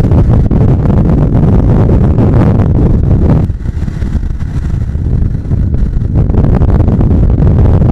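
Wind buffeting the microphone of a moving Bajaj Pulsar 150 motorcycle, with the bike's single-cylinder engine and road noise under it. The rush eases for a couple of seconds mid-way, then returns.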